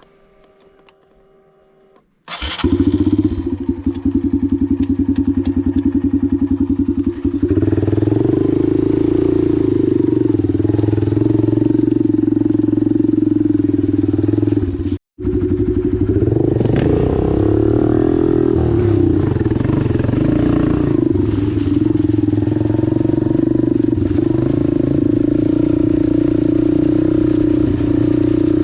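Dirt bike engine running hard, coming in abruptly about two seconds in after a quiet start and getting louder at about seven seconds. The sound cuts out for a split second about halfway through, then the engine carries on.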